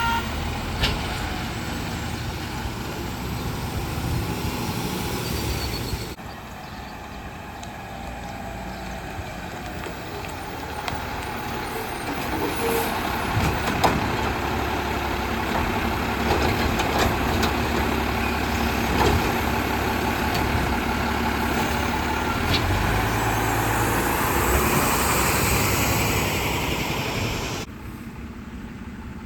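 Autocar WX64 Heil Rapid Rail garbage truck running, its diesel engine growing steadily louder over about twenty seconds. The sound changes abruptly about six seconds in and again near the end.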